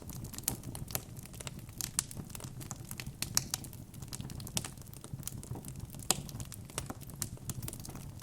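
Wood fire in a fireplace crackling: irregular sharp pops and snaps, several a second, over a steady low rumble, with louder pops about three and six seconds in.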